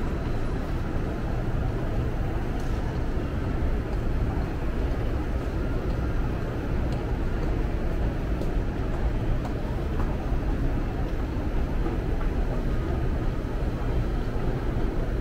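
Steady low rumble of a train in an underground rail station, with a faint murmur of voices.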